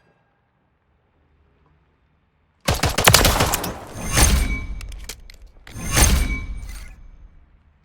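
Pistol gunfire: a sudden flurry of rapid shots about two and a half seconds in, with three loudest volleys about three, four and six seconds in, each trailing off.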